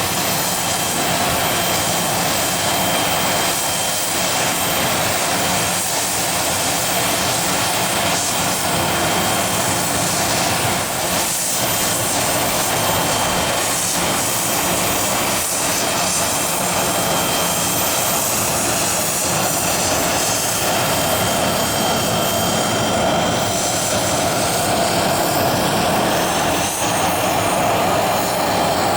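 Business jet engines running steadily and loudly, a dense rushing noise with a thin, high steady whine.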